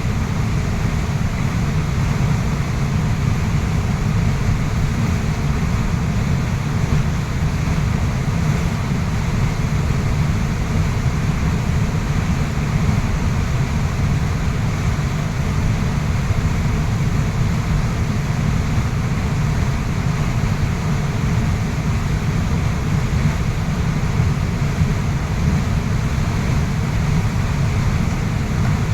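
Waterfall rushing steadily: a dense, even noise of falling water, heaviest in the low range.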